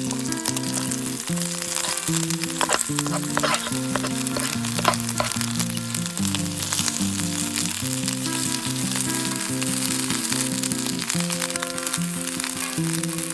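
Food sizzling and frying in a pan over a camp fire, a steady crackling hiss with scattered pops, under background music of held, stepping notes.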